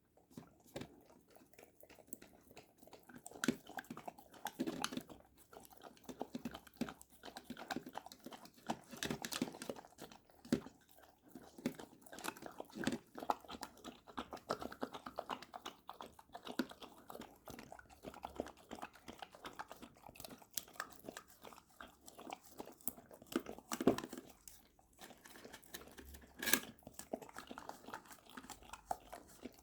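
A Labrador retriever eating dog yogurt, heard close up: a dense, irregular run of wet mouth smacks, licks and chewing.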